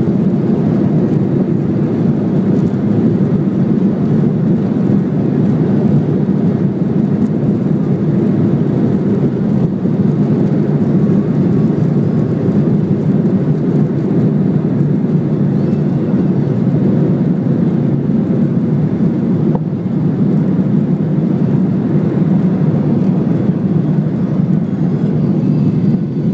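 Steady jet engine noise at high thrust heard from inside the cabin of a Ryanair Boeing 737, an even low noise that holds level throughout.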